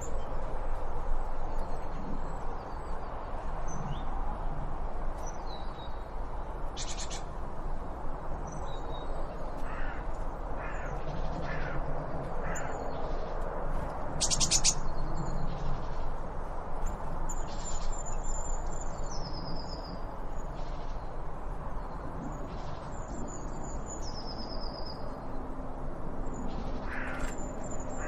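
Wild birds calling and singing: scattered high chirps and several descending whistled phrases, over a steady outdoor background hiss.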